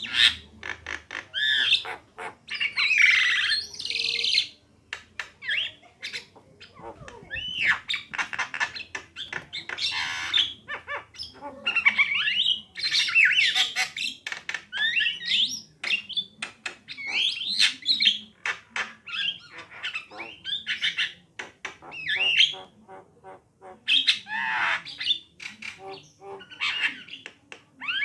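Javan mynas, male and female, calling in a busy run of harsh squawks, chirps and sweeping whistled notes, with short pauses between phrases.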